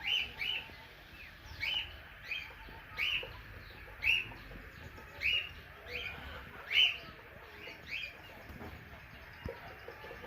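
Small birds chirping: short, sharp chirps about once a second, stopping about eight seconds in.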